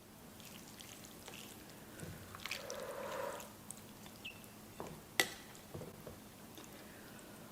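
Quiet, wet eating sounds: small clicks and squishes of chewing, with a soft slurp or breath a few seconds in and one sharp click about five seconds in.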